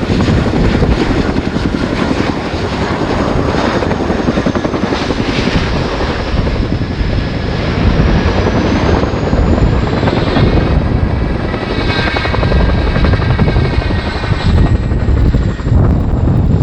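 RAF Boeing Chinook HC.6 tandem-rotor helicopter flying close by, its two rotors giving a loud, rapid blade slap under a high turbine whine. The whine sinks in pitch and climbs again about halfway through.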